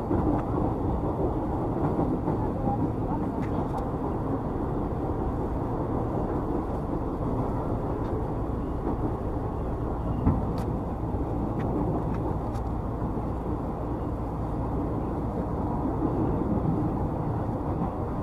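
Steady rumble and rail noise inside the passenger car of a moving electric commuter train, with a few faint clicks near the middle.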